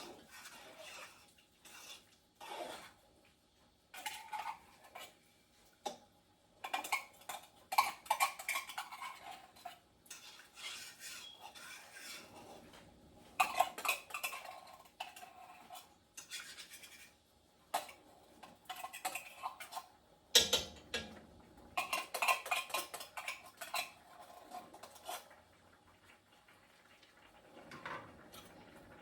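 A metal cooking utensil scraping and clinking against a metal pot in irregular bouts, the work of stirring a pot of broth. One sharp clank stands out about twenty seconds in.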